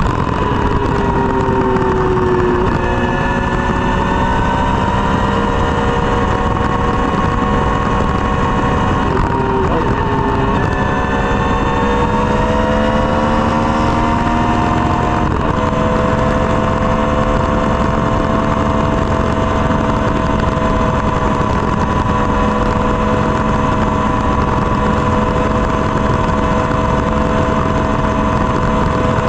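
Triumph Street Triple's three-cylinder engine running through a Dominator GP aftermarket exhaust, its note holding steady with small shifts in pitch near the start, about ten seconds in and about fifteen seconds in, over a dense rushing noise.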